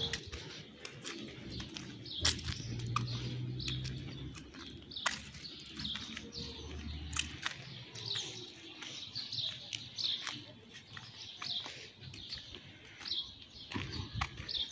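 Small birds chirping, many short high chirps and calls scattered throughout, over a low steady hum that stops about halfway through.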